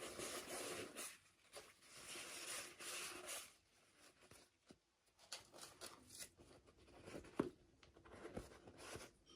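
Toy packaging being opened and handled by hand: soft rustling and crinkling for the first few seconds, then scattered small clicks and taps.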